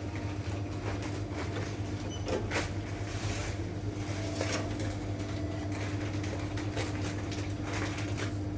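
A steady low electrical hum from an ATM machine with scattered short knocks and clicks, loudest about two and a half seconds in, like panels or parts being opened and handled.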